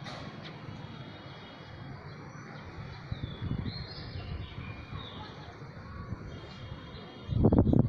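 Small birds chirping and twittering over a low, steady background rumble; near the end a sudden gust of wind buffets the microphone with a loud rumble.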